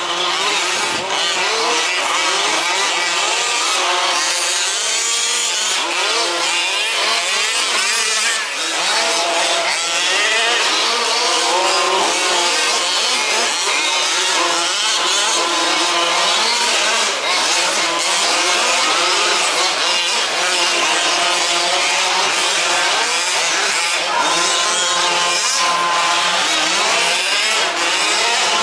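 Several 1/5-scale RC off-road trucks' small two-stroke petrol engines racing together, their pitches rising and falling as they rev, overlapping and passing.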